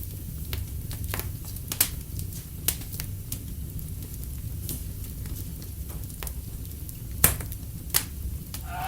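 Wood fire burning in a fireplace, a steady low rumble and hiss broken by irregular sharp crackles and pops, the loudest two pops near the end.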